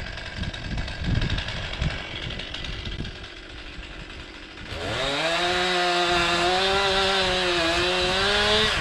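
Chainsaw engine revved up to full throttle about five seconds in and held there, its pitch rising quickly and then staying high and steady until it cuts off. Before it, low uneven rustling and knocking.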